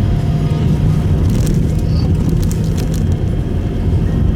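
Steady low rumble of a Subaru Impreza Sport driving along, engine and tyre noise heard from inside the cabin, with a few faint clicks midway.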